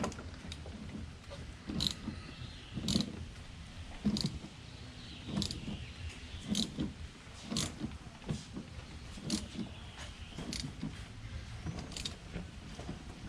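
Metal tool clinks and knocks, roughly one a second, from a socket on an extension being worked onto the oil filter housing cap to seat and thread it.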